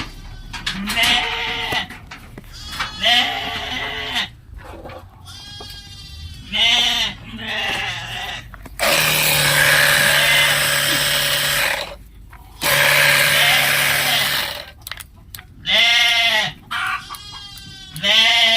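Goats bleating again and again, with a battery-powered sprayer hissing in two long bursts of a few seconds each, about nine and thirteen seconds in, as the goats are sprayed against external parasites.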